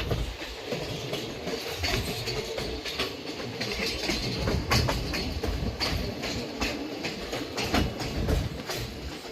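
Passenger train running along the track: a steady rumble with irregular clicks and clatter from the wheels passing over the rails.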